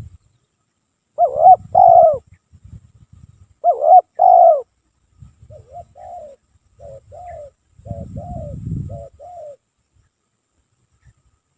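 Spotted dove cooing: two loud two-note coos, about a second in and about four seconds in, followed by a run of softer, short coo notes that stops a couple of seconds before the end.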